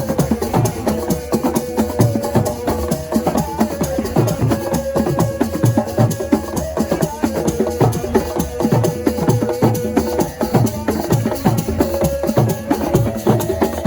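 Assiko percussion music: dense, fast drum and wood-block-like strokes in a steady rhythm, with a held, wavering melodic tone over them.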